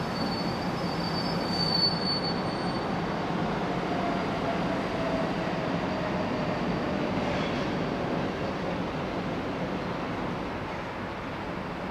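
Electric train running through the station, its wheels squealing with high thin tones in the first couple of seconds over a steady rolling rumble. A mid-pitched whine then slowly falls in pitch, and the sound eases off a little near the end.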